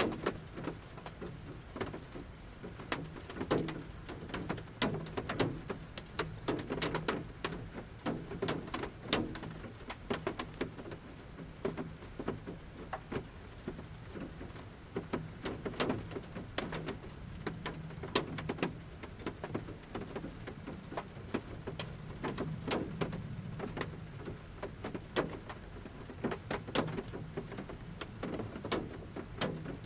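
Large raindrops falling from a forest canopy and drumming on the metal roof of a camper van, heard from inside: sharp taps at irregular intervals and of varying strength, over a faint steady low hum.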